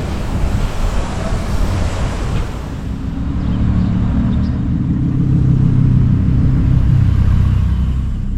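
Car engine with a low rumbling exhaust note. It grows louder from about three seconds in and eases off near the end, over general traffic noise.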